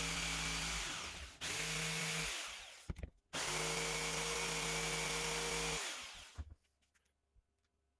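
An electric power tool, drill-like, running in three bursts: a long one, a short one, then another long one. Each ends with the motor spinning down, and the pitch falls away after it is switched off.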